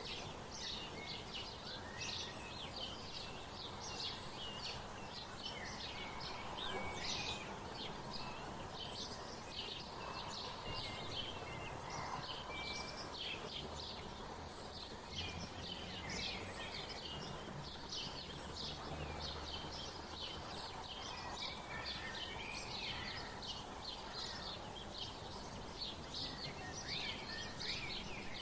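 Many small songbirds chirping and twittering continuously, overlapping quick high calls over a steady background hiss of outdoor noise.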